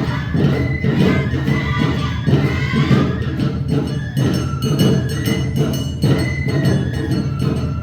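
Awa Odori street band playing: drums and a hand gong keep a brisk, steady beat under a high shinobue flute melody, with shamisen.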